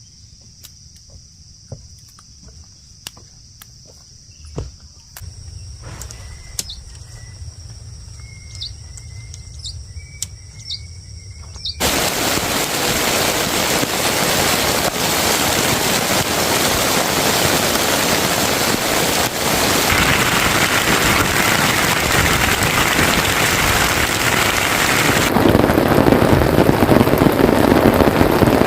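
Quiet outdoor ambience of crickets trilling steadily and birds chirping, with a few small clicks. About twelve seconds in it cuts abruptly to loud, steady heavy rain, which shifts in tone near the end.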